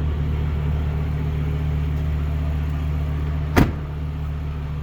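2005 Dodge Ram SRT-10's 8.3-litre Viper V10 idling steadily with a deep growl after a push-button start. A single sharp click cuts across it about three and a half seconds in.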